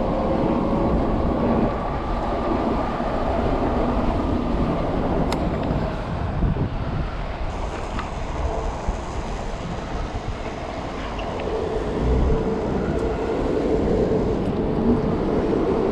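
Steady rumble of wind and road noise from riding through city traffic, with a faint steady whine coming and going.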